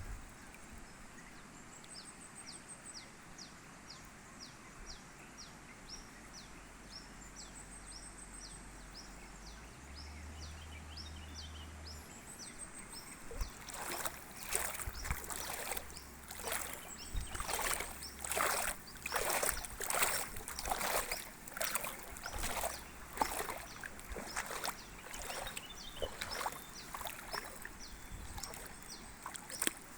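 Steady water noise with a regular high chirping, about two chirps a second. From about halfway in come irregular loud splashes in the water, one every half second to a second.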